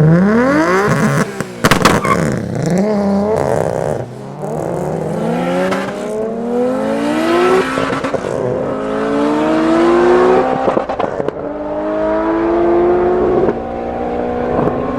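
A modified car's engine accelerating hard through the gears. The revs climb in each gear and drop back at each upshift, about five times, with each gear lasting longer. There are a few sharp cracks around the first shift.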